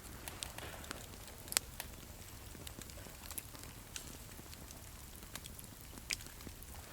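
Campfire crackling, with irregular sharp pops of burning wood, the loudest about a second and a half in and another near the end, over a low steady rumble.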